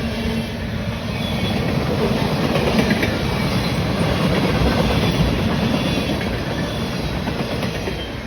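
A train rolling past, a loud steady rumble of wheels on rail that begins to fade near the end.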